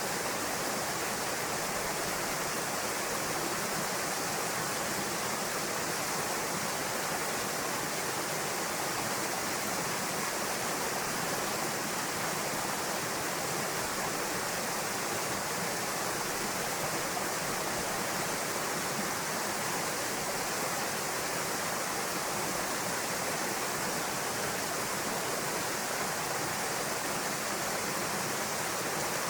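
Waterfall pouring into a pool: a steady rush of falling water with no breaks.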